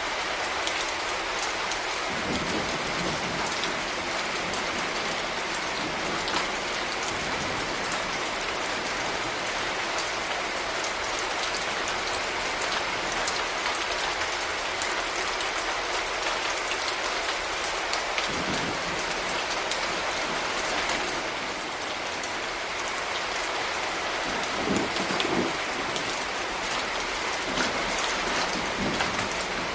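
Steady urban rain falling on hard surfaces, an even hiss at a constant level, with a few brief low rumbles scattered through it.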